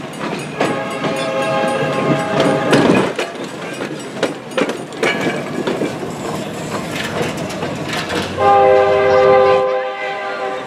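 A rail vehicle's horn sounds two long blasts, one starting about half a second in and one near the end, over the rumble and clicking of wheels on the rails.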